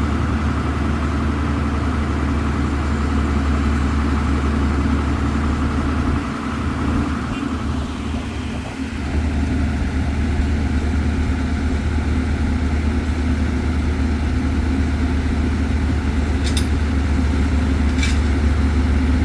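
Heavy diesel engine idling steadily, briefly dropping in level about six to nine seconds in; two short clicks near the end.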